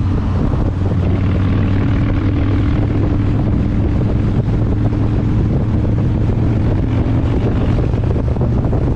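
Motorcycle engine running at a steady speed, a constant low drone, with wind rushing over the microphone.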